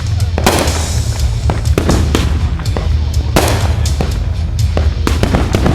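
Fireworks going off over loud music with a steady heavy bass: many sharp cracks, with bigger bursts about half a second in, midway through and near the end.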